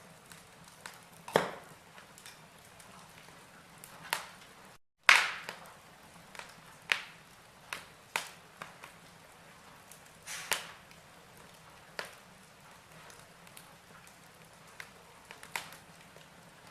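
Burning logs in a fireplace crackling: irregular sharp pops and snaps over a faint steady hiss. The loudest pops come about a second in, just after a brief cut to silence near five seconds, and at about ten seconds.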